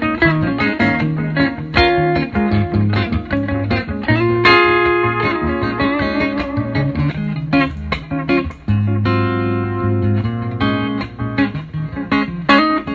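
Telecaster-style electric guitar playing runs of quick picked notes, with a held chord ringing out about four seconds in and another about nine seconds in.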